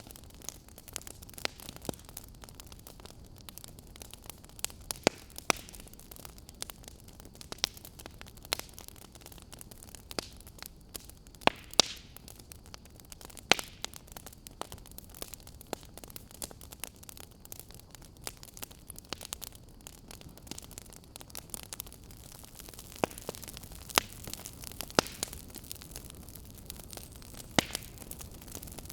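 Wood fire crackling in a fireplace: irregular sharp pops and snaps over a steady low hiss, with a few louder pops about twelve seconds in and again near the end.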